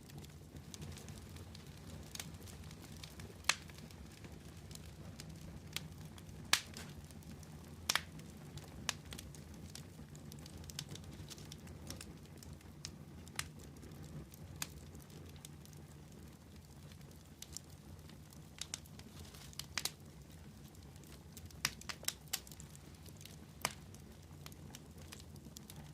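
Wood fire crackling: irregular sharp pops at random intervals, a few louder than the rest, over a low steady rumble.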